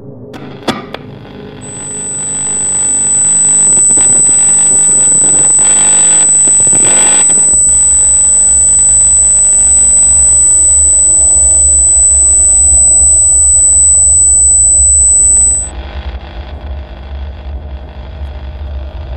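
A steady, piercing high-pitched tone that comes in about two seconds in and cuts off sharply near the end, over a loud, noisy bed with a deep rumble joining about halfway.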